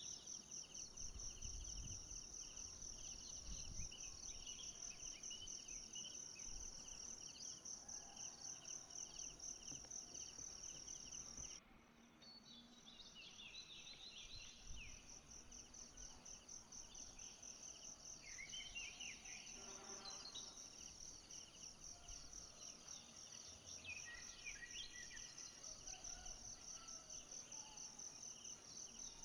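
Forest insects trilling: a steady chorus of high-pitched, rapidly pulsing calls with a second, lower pulsing call beneath it. About twelve seconds in the sound suddenly drops away for a moment and then resumes, and short scattered chirps come and go over the next dozen seconds.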